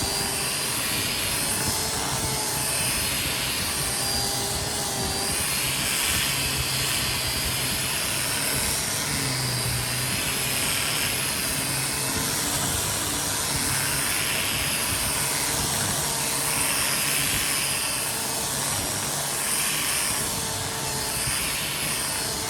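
A handheld electric power tool's motor running steadily with a wavering whine. A rushing hiss swells and fades about every one and a half to two seconds as the tool is swept back and forth.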